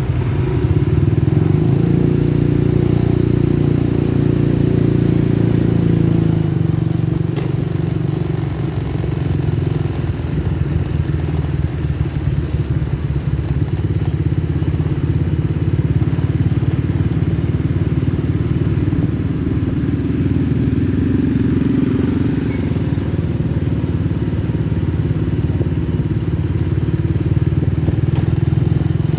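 Motorcycle engine running steadily, its note shifting a little now and then.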